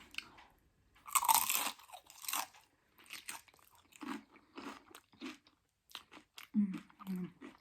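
Close-up crunching of Doritos nacho chips loaded with toppings: a loud bite about a second in, then steady chewing, roughly two chews a second.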